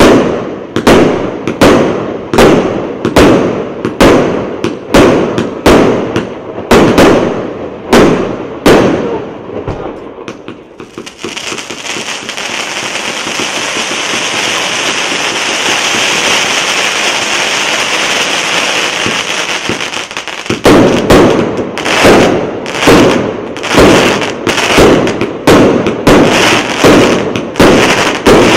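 A 238-shot combination firework cake firing its tubes in a steady rhythm of about two shots a second. About ten seconds in, the shots give way to ten seconds of dense continuous crackling from crackling stars bursting overhead, then the rapid launches resume.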